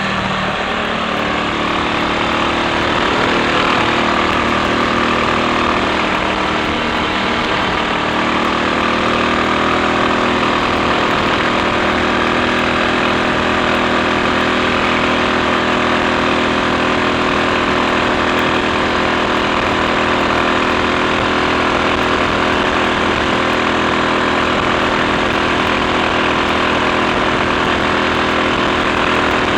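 Triumph Sports Cub's single-cylinder four-stroke engine running on the road. Its pitch shifts over the first several seconds, then holds steady.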